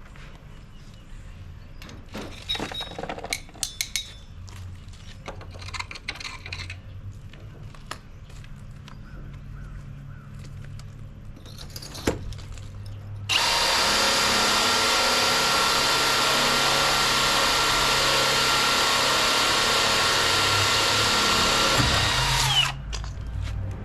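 Scattered knocks and tool handling, then a power drill runs loud and steady for about nine seconds, boring a hole through a brick wall, and stops suddenly.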